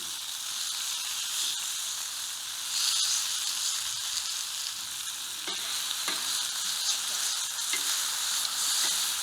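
Bacon sizzling and spitting in its grease on a griddle ring over an open wood fire, a steady frying hiss with a few small clicks and pops.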